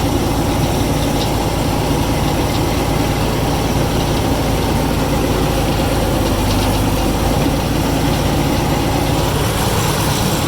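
Heavy equipment engine running steadily at a low, even speed, with no change in pitch or loudness.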